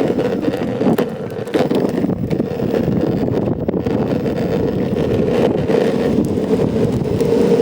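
Aircraft engine noise, a steady hum and rumble, with gusty wind buffeting and crackling on the microphone.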